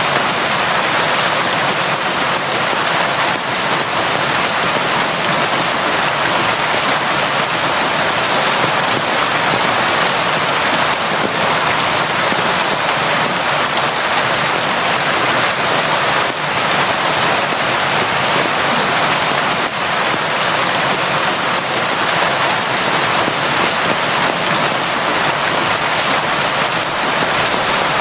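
Steady, heavy rain falling without a break, a dense even hiss of drops.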